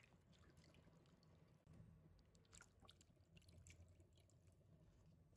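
Near silence: faint splashing and dripping as leafy greens are washed by hand, leaf by leaf, in a basin of water.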